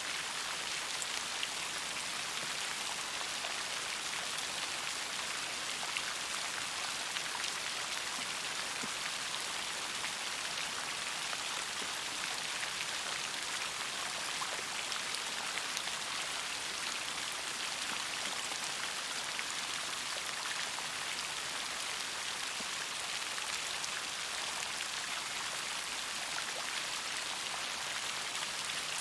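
Steady rain with many individual raindrops pattering on a surface.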